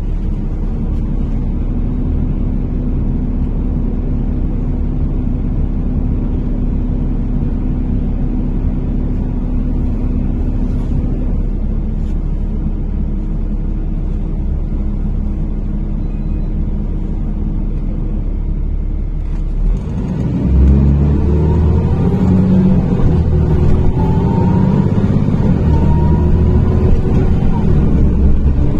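Steady low engine and road rumble inside a NefAZ-5299 city bus on the move. About two-thirds of the way through it grows louder, with shifting tones over the rumble.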